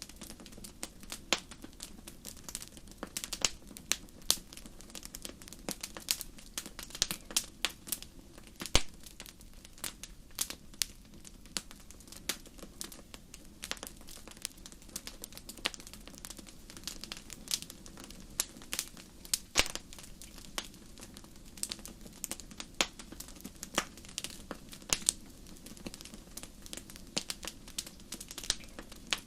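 Wood fire burning in a fireplace, with frequent irregular sharp crackles and pops over a low steady hiss of flames.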